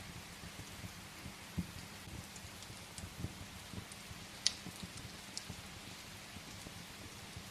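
Steady rain with a wood fire crackling. Scattered sharp pops come through the rain, the loudest about four and a half seconds in, along with a few soft low thuds.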